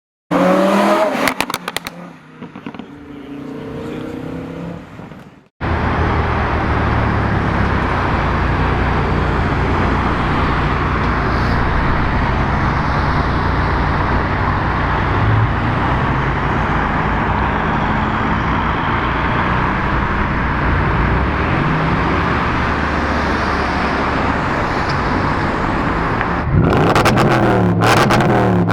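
Car engine revving in rising and falling sweeps, then, after an abrupt cut about five seconds in, running steadily and loudly, before revving harder again near the end.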